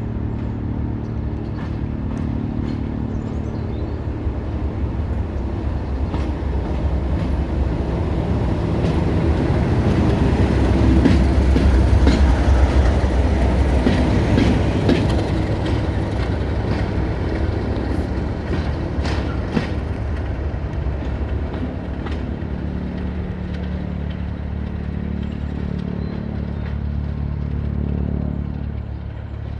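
Diesel train running past: a steady engine drone that grows louder to a peak about twelve seconds in, then eases off, with wheels clicking over the rail joints as it goes by.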